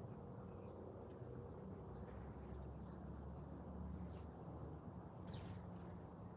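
A few short, faint bird chirps, the clearest about five and a half seconds in, over a steady low background hum.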